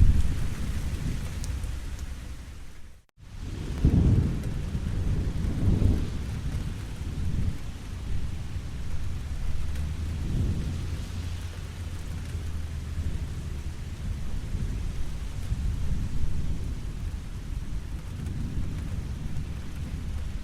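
Steady rain with low, rolling thunder rumbles that swell and fade several times. The sound drops out for a moment about three seconds in.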